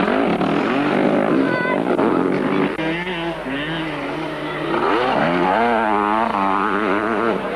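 Several motocross motorcycles running on the track, their engines revving up and dropping off over and over as they accelerate, shift and roll off the throttle.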